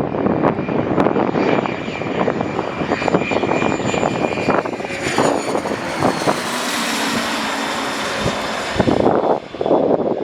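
Twin Williams FJ44 turbofans of a Cessna Citation CJ2+ business jet landing: a steady high whine that rises in pitch, building to a loud rushing jet noise about six seconds in that drops away suddenly about nine seconds in.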